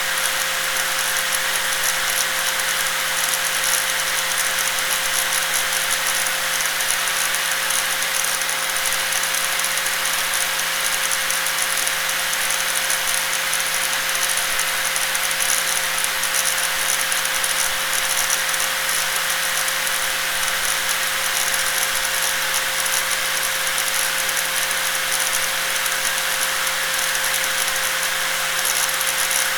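Electric angle grinder running steadily with a constant whine and a hissing, rattling top end, unchanging in speed or level.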